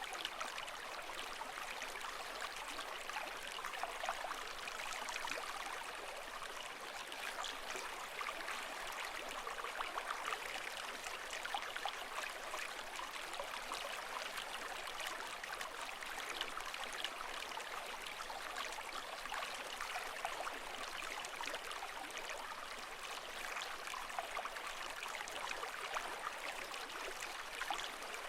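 Running water: a steady, even hiss flecked with many small splashes and trickles, with no swell of breaking waves.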